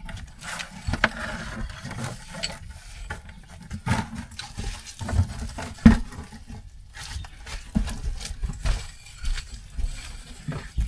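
A bucket being hauled up a cave pit on a rope-and-pulley system: irregular knocks, scrapes and clatter with rope and handling noise.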